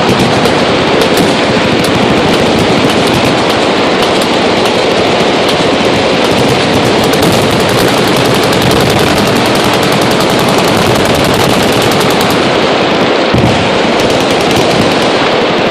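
Many machine guns firing at once, a dense, unbroken rattle of overlapping automatic fire.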